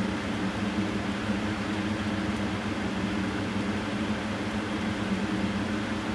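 Steady machine hum with a low drone under an even hiss, unchanging throughout.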